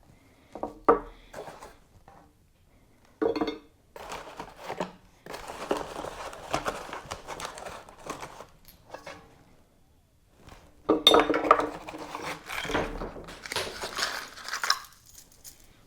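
Loose metal mounting hardware for a motorcycle engine protection plate clinking and rattling as it is handled, in irregular bursts.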